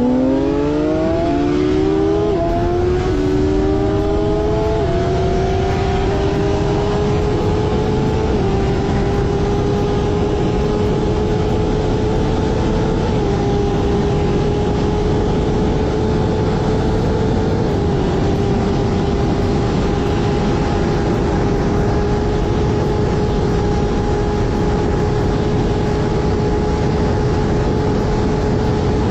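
Inline-four sportbike engine accelerating hard, shifting up through the gears in quick succession during the first eight seconds or so, each shift a short drop in pitch. It then holds a steady high-revving note at speed, with a couple of small dips later, over a steady rushing noise.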